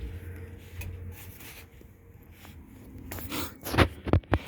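A low steady hum, then a quick run of several sharp knocks and clicks in the last second and a half.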